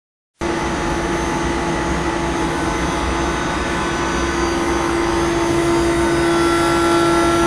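Hybrid micro-machining machine running: a steady machine hum with one strong constant tone and fainter higher whines over an even hiss.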